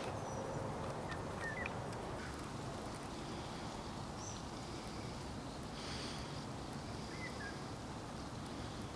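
Birds chirping a few times, short calls spread through, over a steady low background rumble.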